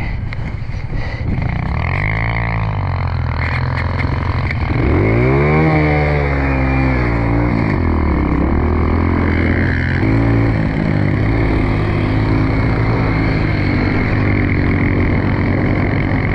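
Pit bike engines running and revving, the pitch rising and falling as the bikes ride past, loudest in a pass about five to seven seconds in.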